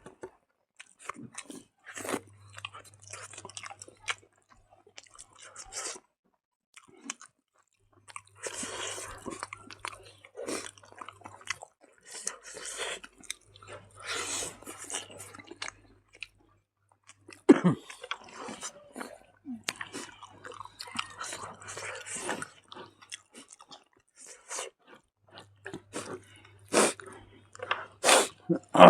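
Chewing and crunching close to the microphone: irregular crackling bites and clicks of food being eaten.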